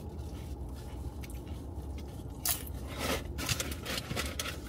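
Tortilla chips being chewed and crunched, with a few short, sharp, noisy sounds in the second half, over a steady low hum in the car.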